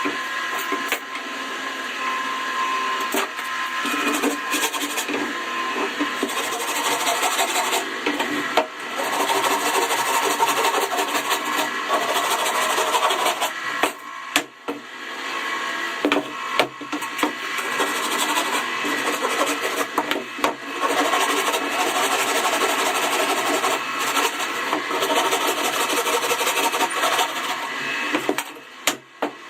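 A tool working wood, running continuously with a few short pauses and scattered knocks.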